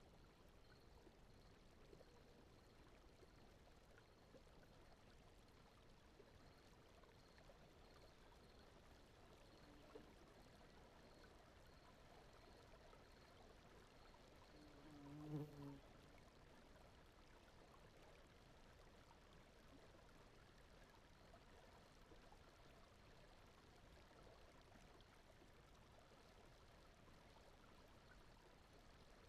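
Very faint, steady rushing noise bed, brown-noise-like or water-like, for sleep. About halfway through there is a brief, faint low hum, and during the first half a faint high tick repeats about twice a second.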